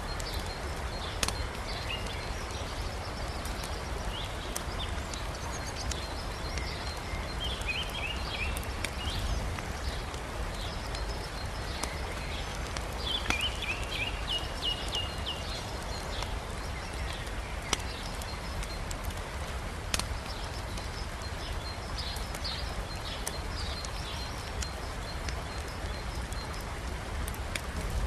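Wood fire crackling with a few sharp pops, over the steady rush of a river, with small birds chirping several times.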